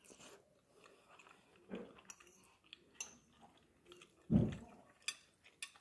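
A person chewing a mouthful of chicken and shiitake mushrooms, with small scattered mouth clicks and one louder low thump about four and a half seconds in.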